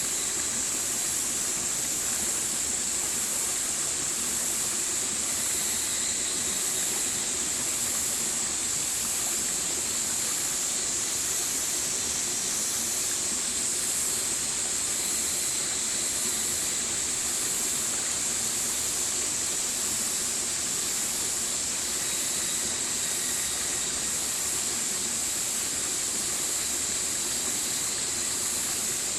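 Stream water rushing steadily: an even, hissing rush of running water with no breaks or changes.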